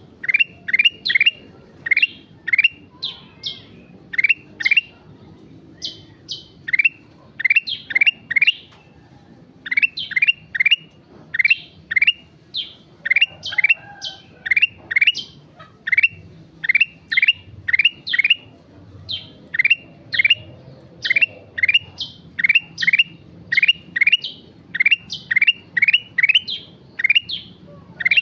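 Ruby-throated bulbul (kutilang emas) singing vigorously and continuously: runs of short, quick upward-sweeping whistled notes, several a second, repeated over and over with only brief pauses.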